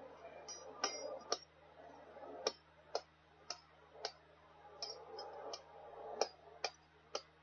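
A hammer striking a snow-chain repair link to close it, about a dozen sharp metallic taps, irregular and roughly two a second.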